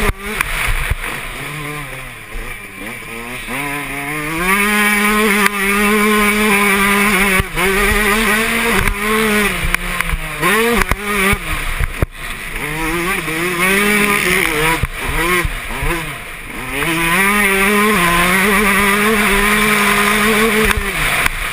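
Yamaha YZ125 two-stroke single-cylinder motocross engine ridden hard: the pitch climbs and holds high, drops sharply as the throttle shuts, and climbs again, with quick rapid rises and falls through the middle as the rider shifts and blips the throttle.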